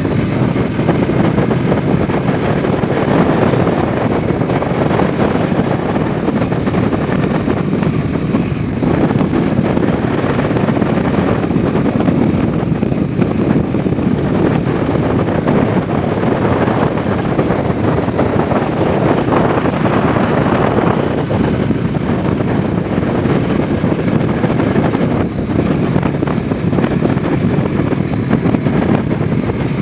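Bajaj Dominar 400 motorcycle's single-cylinder engine running under way, its exhaust note held steady at a cruising speed.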